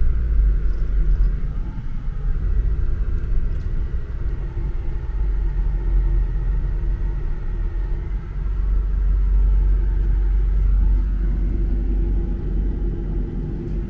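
Car driving at speed, a steady low engine and road rumble that swells a little past the middle.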